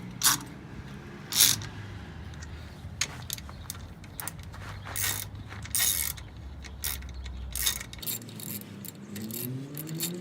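Hand ratchet wrench clicking in short, irregular runs as lug nuts are tightened onto a wheel adapter. Near the end a low tone rises and then falls.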